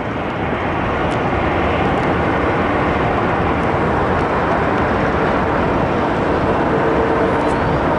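Jet engine noise from an arriving American Airlines Boeing 737 MAX 8 with CFM LEAP-1B turbofans. It is a steady, loud rush that builds a little at first. A faint steady hum joins about five seconds in, and a thin rising whine comes near the end.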